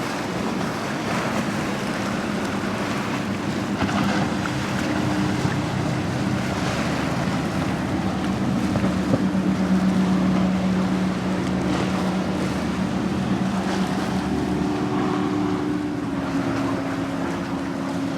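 A motorboat's engine drones steadily over the wash of waves and wind on the microphone. It is loudest about halfway through, and its pitch drops slightly near the end as the boat goes by.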